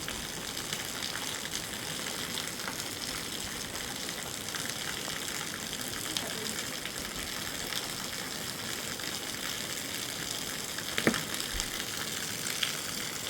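Steady hiss of heavy rain falling, with one sharp knock about eleven seconds in.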